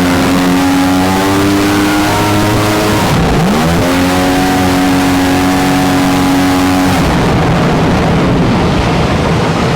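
Mini jet boat's engine running at speed. Its note dips and climbs back about three seconds in, then holds steady. About seven seconds in the engine note falls away as the throttle comes off, leaving a steady rush of water and wind noise.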